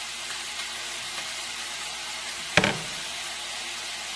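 Tap water running steadily from a faucet, a continuous hiss, with one loud thump about two and a half seconds in.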